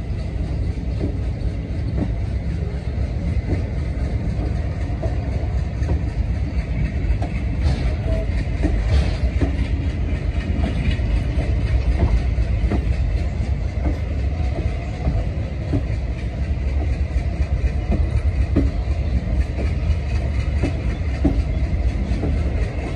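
Indian passenger train running out of a station, heard from an open coach door: a steady low rumble with scattered clicks of the wheels over rail joints.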